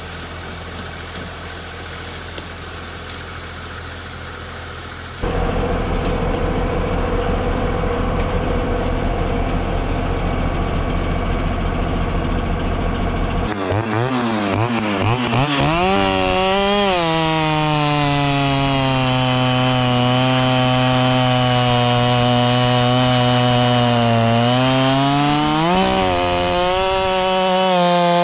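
An engine idling, then after an abrupt cut a louder, lower engine running. From about fourteen seconds a Stihl chainsaw revs up and runs at high speed, dipping in pitch briefly near the end as it takes load in the cut and then picking back up.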